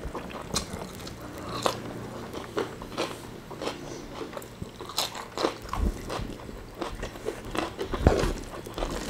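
Two people eating with their hands, chewing and biting into fried food, with irregular crunches a few times a second.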